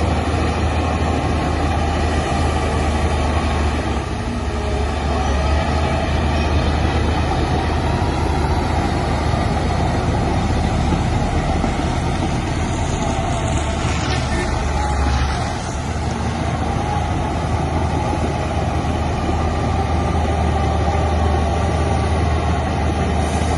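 Heavy diesel engine of earthmoving machinery running steadily with a low drone, dipping briefly in level twice.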